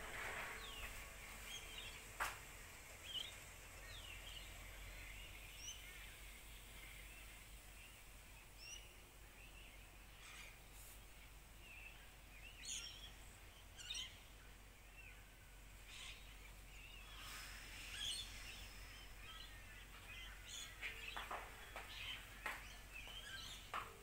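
Faint bird chirps and short calls scattered throughout, from more than one bird, over a low steady hum, with a few soft clicks.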